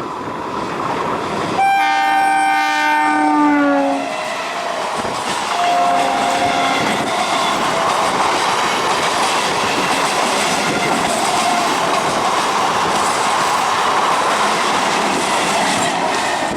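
A train horn sounds a loud multi-tone blast of about two seconds whose pitch sags near its end, then a shorter, lower blast a couple of seconds later. The train then rolls past with a steady clatter of wheels on rails.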